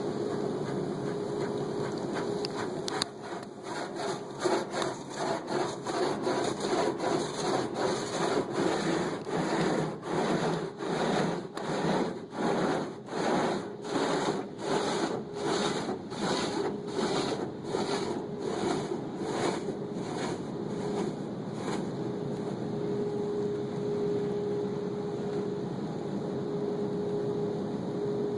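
Automatic car wash running: a steady machinery hum with a held tone, and for most of the time a rhythmic swishing, about one and a half strokes a second, as the wash brushes rub over the car, easing off near the end.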